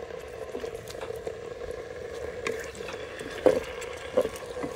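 Chicken and onion sizzling as they fry in an open multicooker bowl on its fry setting. A few sharp knocks sound over it, the loudest about three and a half seconds in.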